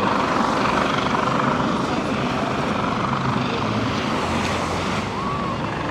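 Steady drone of an aircraft overhead, mixed with background voices.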